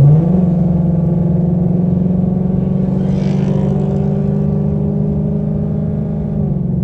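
Car engine running hard at high, steady revs: its pitch rises just after the start, then holds, easing off slightly near the end, with a brief rush of wind or road noise about three seconds in.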